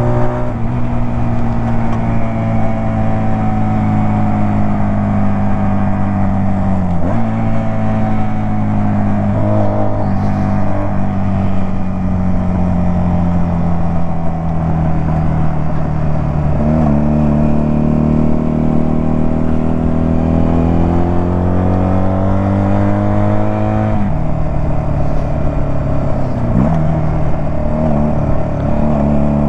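Two-cylinder 125 cc carburettored chopper engine under way, heard from the rider's seat. Its note slowly falls and rises with the throttle and changes abruptly a few times as the rider shifts gear.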